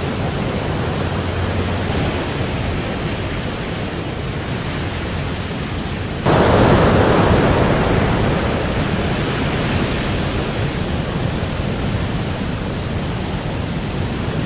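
Typhoon-driven surf and wind along a coast, a steady heavy rush of noise. About six seconds in, a sudden louder surge breaks in and eases off over the next two seconds or so.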